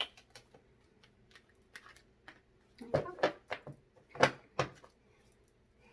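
Tarot cards being handled on a table: a scatter of light clicks and taps as the deck is worked and cards are drawn, with several louder taps about three to four and a half seconds in.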